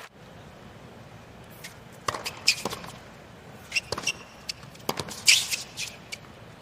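Tennis point on a hard court: a series of sharp knocks of the ball off racket and court, with brief shoe squeaks, over a hushed crowd.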